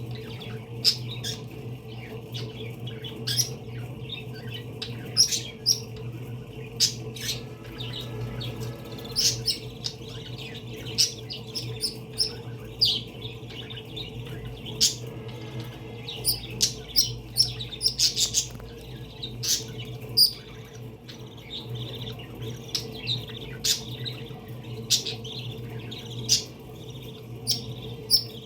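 Pet parakeets chirping, with many short sharp calls coming quickly and irregularly, over a steady low hum.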